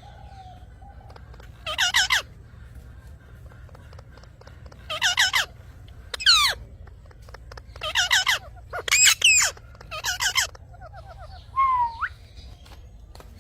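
Lovebirds giving shrill squawking calls in about seven short bursts, each under a second long, with pauses between, over a faint low hum.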